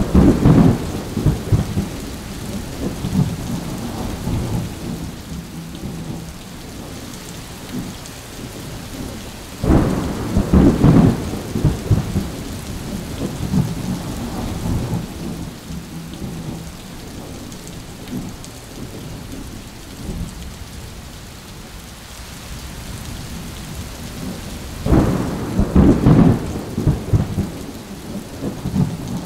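Thunderstorm: three loud peals of thunder, each rumbling for a couple of seconds, at the start, about ten seconds in and about twenty-five seconds in, over steady rain.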